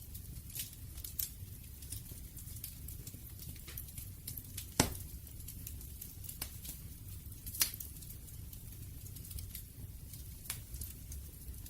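Wood fire burning, with a steady low rumble and irregular crackling, and two loud sharp pops about five and seven and a half seconds in.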